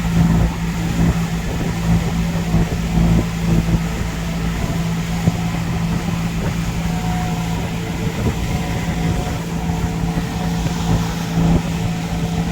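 Boat engine running steadily under way, a constant low hum with rumble and water and wind noise over it.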